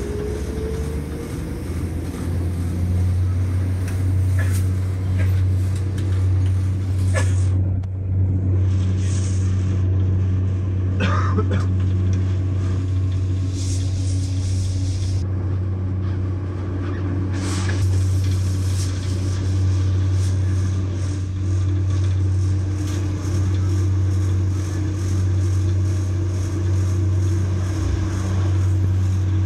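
Diesel passenger train heard from inside the carriage while running at speed: a steady low drone of engine and wheels on rail, with a few brief clatters.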